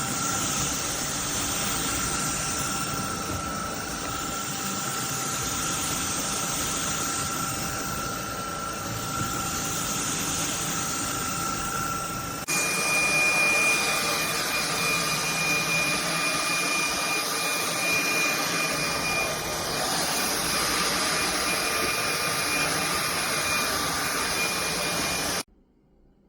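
Cordless stick vacuum cleaner's motor running with a steady rushing noise and whine. About halfway through it jumps abruptly to a louder, higher-pitched whine, then cuts off suddenly near the end.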